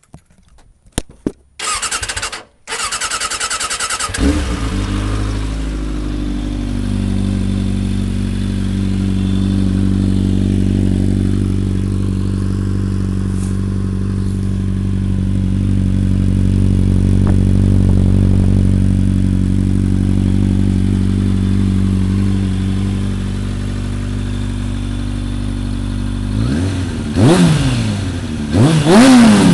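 Suzuki Katana 600's inline-four engine, breathing through a Yoshimura slip-on exhaust, cranked on the electric starter and catching about four seconds in, then idling steadily. It is revved twice near the end.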